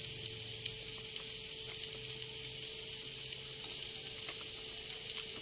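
Fried tiwul (cassava rice) sizzling steadily in the pan: an even hiss with a few faint ticks and a faint steady hum underneath.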